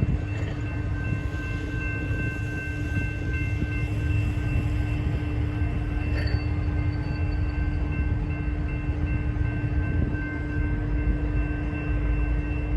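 Diesel locomotive of a freight train running: a deep, even rumble under a steady hum and a few high, steady whining tones.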